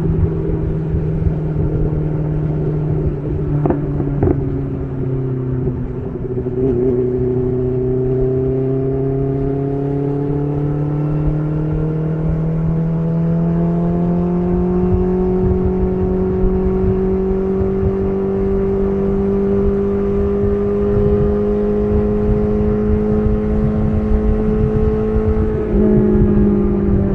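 BMW S1000RR inline-four running through an SC Project CR-T titanium exhaust while riding. The engine note eases down over the first few seconds, then climbs slowly and steadily for most of the stretch, with a short, louder step in the note near the end.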